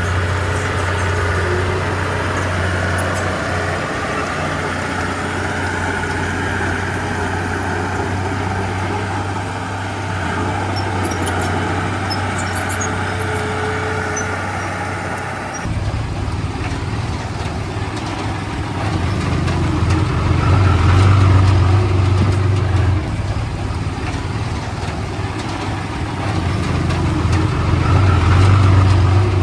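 Heavy diesel earthmoving machinery running steadily with a low engine drone. About halfway in the sound changes abruptly, and after that the engine swells louder twice under load.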